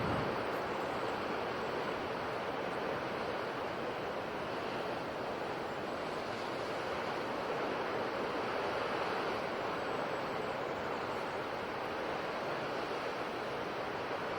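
Ocean surf washing on a shore: a steady, unbroken rush of breaking waves with no single crash standing out.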